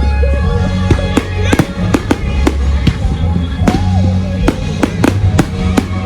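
Music with a heavy, steady bass, overlaid by fireworks going off: about a dozen sharp bangs and cracks at irregular intervals.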